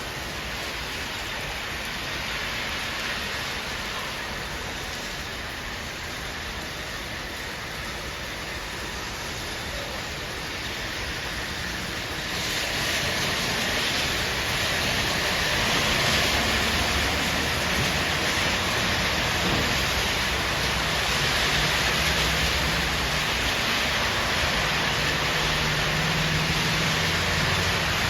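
Steady rain falling, turning heavier and louder about twelve seconds in.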